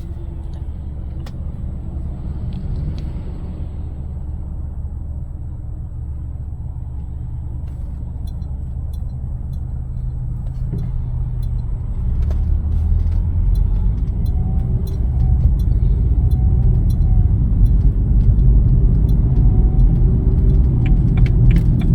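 Road noise heard from inside a moving car: a steady low rumble of engine and tyres that grows louder from about halfway through.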